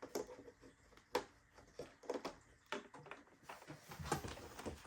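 Light handling noise of an RC airplane wing and its wing clips being fitted to the fuselage: scattered soft clicks and knocks with faint rustling between them.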